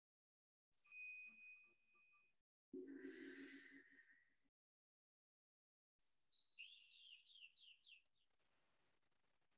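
Faint bird song cutting in and out through a video-call microphone. First a short chirp and a held whistled note, then a brief noisier sound, and in the second half a quick run of falling chirps stepping down in pitch.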